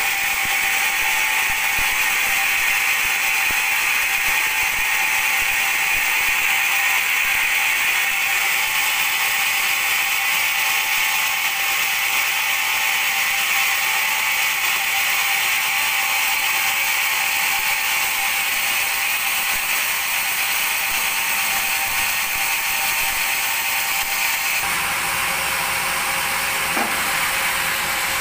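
Band sawmill running with a steady high-pitched hiss and whine; a lower rumble joins about 25 seconds in.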